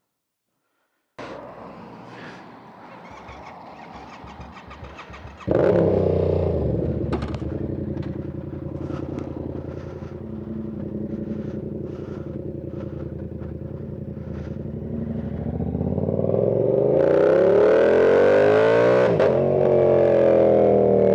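Yamaha R7 parallel-twin with a loud aftermarket exhaust, heard from inside the rider's helmet. It fires up about five seconds in and idles steadily, then revs and pulls away in the last few seconds, the pitch climbing, dipping at a gear change and climbing again.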